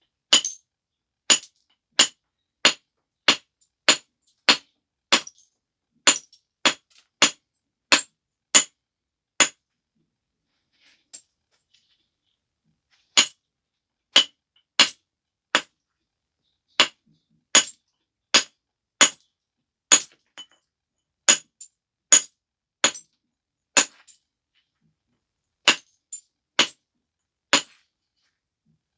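Flintknapping on a stone biface: sharp, ringing clicks of tool on stone, evenly spaced at about one and a half a second, in three runs with short pauses between them.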